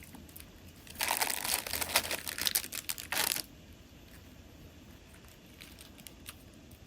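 Crinkling, crackly rustling like plastic or paper packaging being handled, for about two and a half seconds from a second in, then a few faint clicks.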